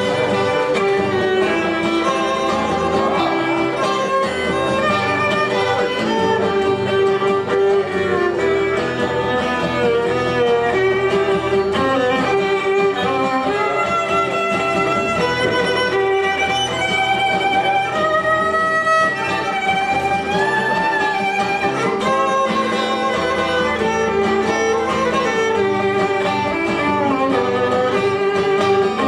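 Violin playing a melodic instrumental break over steady acoustic guitar strumming, with notes sliding between pitches.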